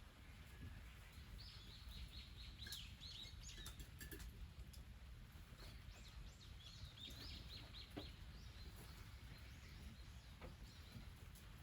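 A bird singing faintly in two runs of quick high chirps, each a few seconds long, over a steady low hum, with a few faint clicks.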